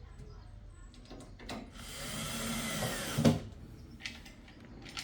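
A small power tool's motor running for about a second and a half, its pitch shifting a little, then stopping with a sharp click.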